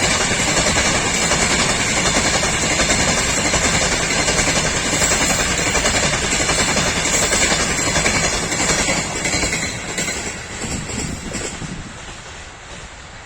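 Freight train wagons rolling past on the rails with a loud, steady clatter, which fades away over the last few seconds as the train moves off.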